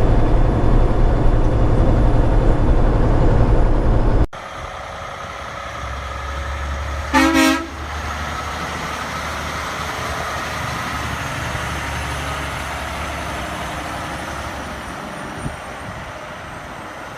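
Semi truck driving with steady engine and road noise, cut off abruptly about four seconds in; after the cut, quieter vehicle noise with one short horn toot about seven seconds in.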